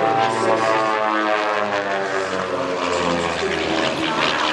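Propeller engines of a pair of Van's RV-8 light aircraft passing in a display flypast. The engine note holds steady, then drops in pitch from about three seconds in as they go by.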